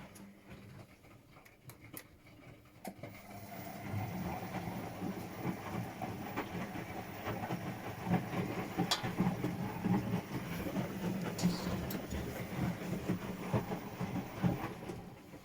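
Washing machine drum turning: the motor hums and the tumbling laundry makes irregular knocking and rattling. It starts about three seconds in and stops near the end.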